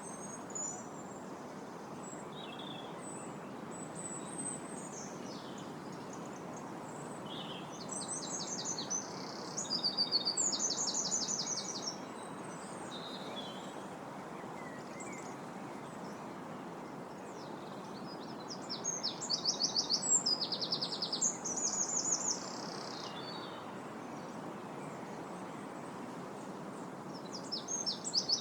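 Wind blowing steadily through trees, with small birds singing over it in short high chirps and runs of rapid repeated trilled notes, loudest about a third of the way in and again past the middle.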